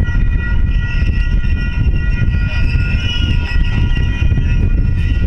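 Freight train cars rolling past at a grade crossing: a loud, steady low rumble of steel wheels on rail, with steady high-pitched tones ringing over it.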